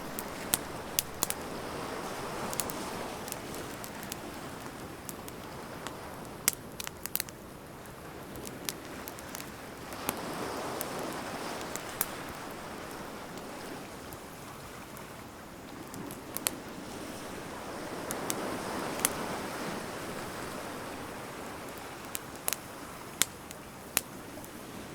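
Wood bonfire crackling, with sharp pops scattered irregularly throughout. Behind it, waves wash in as slow swells about every eight seconds.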